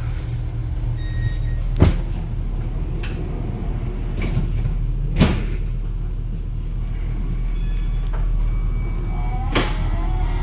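Flexity tram heard from inside, with a steady low running rumble. Three sharp knocks come a few seconds apart. A faint wheel squeal starts near the end.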